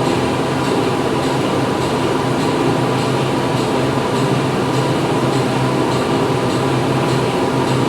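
Factory machinery running: dense steady mechanical noise with a low hum and a faint, regular light ticking.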